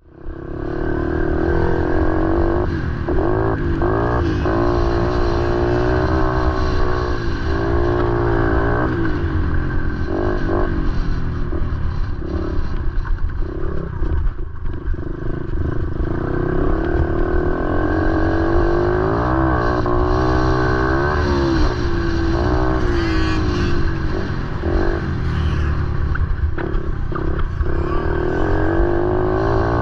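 Motorcycle engine running, its pitch rising and falling as the revs change.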